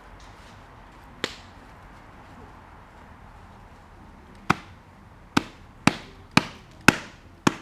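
Chopping: one sharp stroke, then after a pause six strokes about half a second apart.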